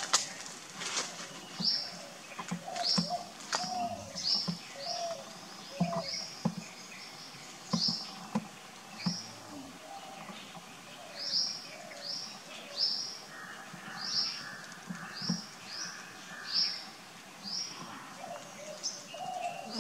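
A small bird calling over and over: short high chirps, roughly one a second at uneven spacing, with faint scattered clicks and rustles.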